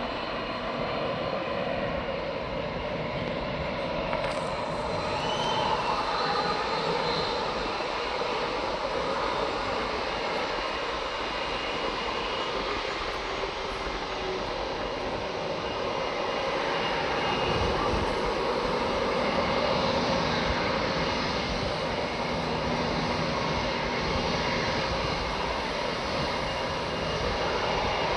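Turbofan engines of a VietJetAir Airbus A321-211, CFM56-5B, running with a steady jet noise and a faint high whine.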